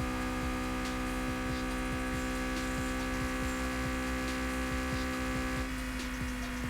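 Car engine running steadily with a constant hum and faint regular low pulses; the higher tones drop away near the end.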